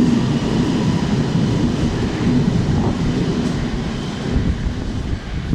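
Milan metro Meneghino train pulling out of the station, a steady low rumble with a faint motor whine that slowly gets quieter.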